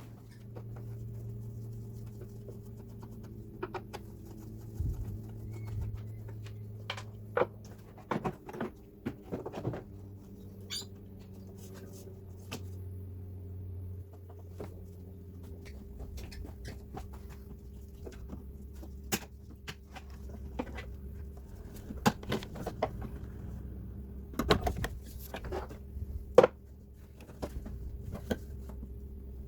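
Scattered clicks, clinks and light knocks of hand tools and metal and plastic parts being handled while the thermo fans are unbolted, over a steady low hum.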